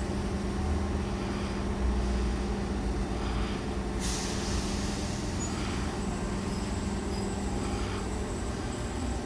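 Electric passenger train standing at the platform, its equipment giving a steady low hum and rumble, with a burst of air hiss about four seconds in.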